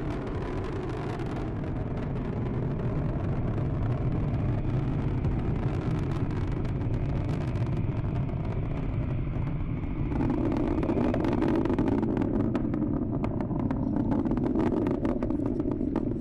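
Falcon 9 rocket's first stage, with its nine Merlin engines, rumbling steadily in climb before going transonic, with crackling that grows stronger and a little louder about two-thirds of the way through.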